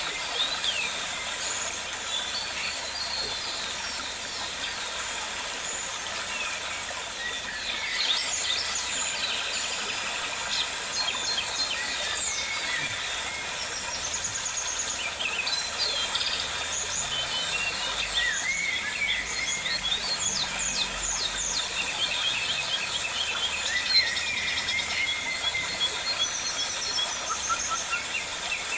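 Birds chirping and calling in an aviary: many short chirps, trills and quick rising and falling notes overlapping throughout, over a steady hiss.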